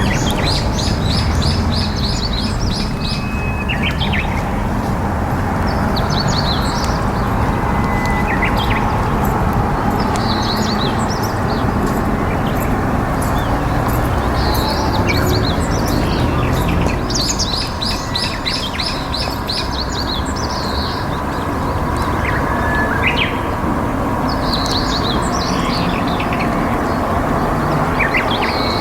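Steady rush of flowing river water, with small birds calling above it: short chirps and, twice, a fast trill of rapidly repeated high notes.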